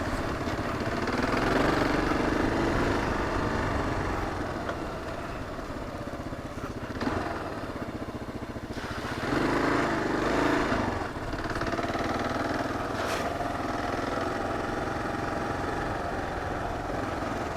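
Kawasaki KLR 650 single-cylinder four-stroke engine running as the bike rides through slippery clay mud, the revs swelling twice.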